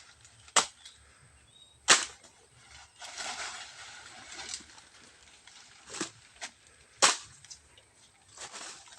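About six sharp cracks and snaps among tree branches, the loudest about two seconds in and about seven seconds in, with rustling of leaves in between as fruit is twisted and worked loose.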